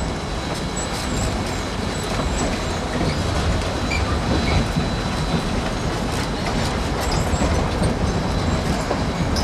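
Narrow-gauge passenger train rolling over the rails, with a steady rumble, clicks from the rail joints and a faint high wheel squeal as it takes a curve.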